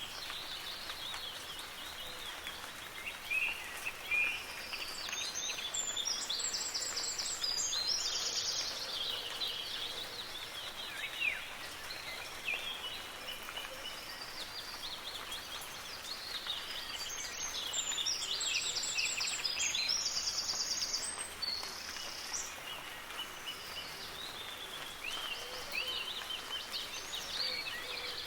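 Several songbirds singing over a steady hiss of soft rain. The loudest bird sings the same fast, trilled phrase twice, about twelve seconds apart.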